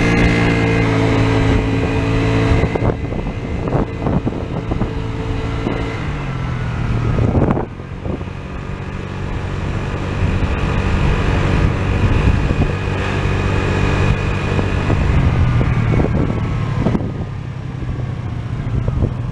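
Piaggio Vespa ET4 125 scooter's single-cylinder four-stroke engine running while riding, its pitch rising and falling as it speeds up and slows down, and dropping away near the end.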